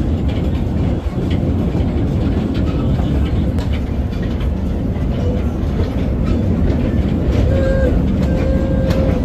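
Thomas-themed ride-on train running along its track: a steady low rumble with scattered clicks from the wheels and cars.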